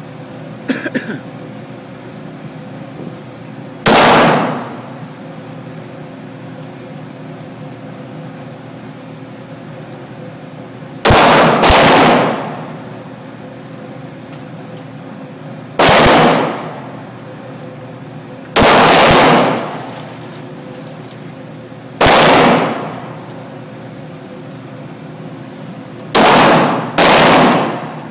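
Eight shots from a 9mm handgun, fired one at a time at uneven intervals, including two quick pairs near the middle and the end. Each shot is a sharp crack with a short echoing tail.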